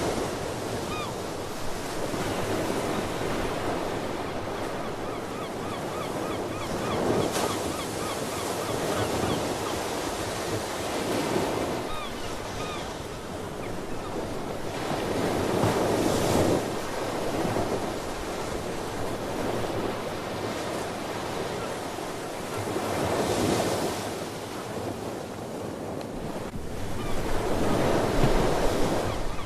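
Ocean surf: waves breaking and washing in, swelling every few seconds over a steady rush of wind and water. Sea birds give a few faint calls now and then.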